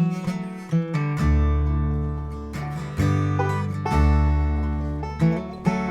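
Instrumental song intro: acoustic guitar and banjo picking in a bluegrass style, with a bass coming in with long low notes about a second in.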